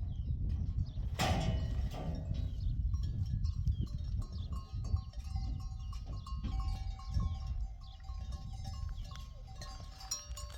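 A flock of sheep and goats, with bleats and the clinking of livestock bells.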